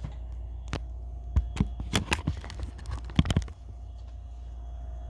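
Objects being handled: an irregular run of sharp clicks and knocks lasting about three seconds, over a steady low hum.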